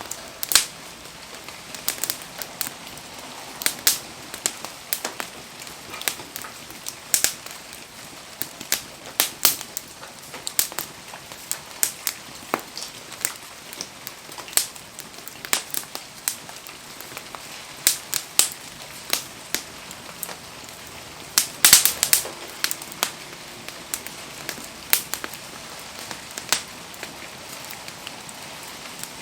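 Wood fire crackling and popping at irregular intervals over a steady hiss of rain, with a quick burst of louder pops about two-thirds of the way through.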